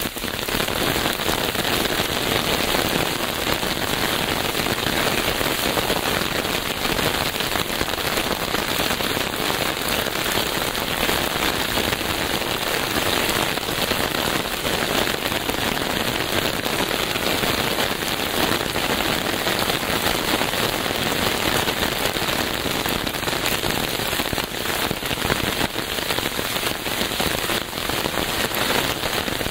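Steady, heavy rain falling and pattering on surfaces, a dense even hiss full of fine drop ticks.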